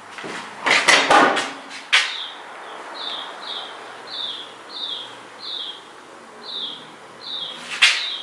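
A few loud knocks and clatter at first, then a bird chirping over and over, about two short high calls a second, with another knock near the end.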